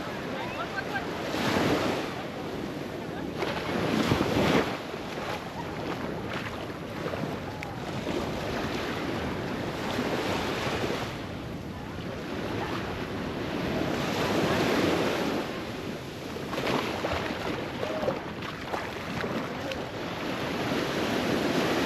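Ocean surf breaking and washing up the shore, swelling every few seconds, with wind buffeting the microphone.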